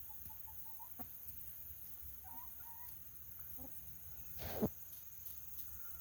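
Backyard hens clucking softly: a quick run of short, quiet clucks at the start and a few more partway through, then one louder cluck about four and a half seconds in.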